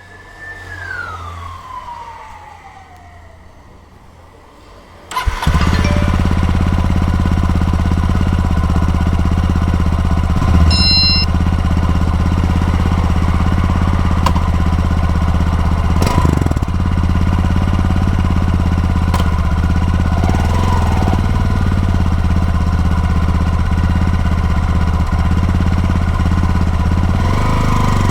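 A falling whine in the first seconds, then about five seconds in the Honda XRE 190's single-cylinder engine starts abruptly and settles into a steady idle, with a short high beep about eleven seconds in.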